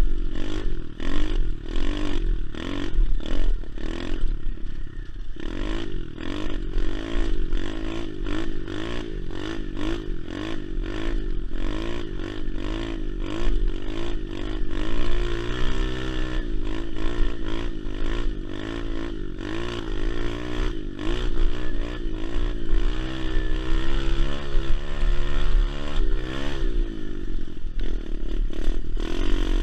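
SSR 125 pit bike's single-cylinder four-stroke engine running and revving up and down over and over, with pitch swings throughout and a drop near the end.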